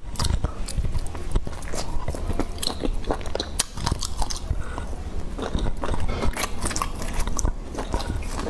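A person biting and chewing grilled skewered food, with many irregular sharp clicks and smacks of the mouth.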